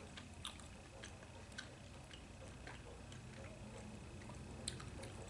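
Faint, irregular soft clicks of a person chewing chewy Korean rice cake with the mouth close to the microphone, a few clicks a second, a little louder near the end.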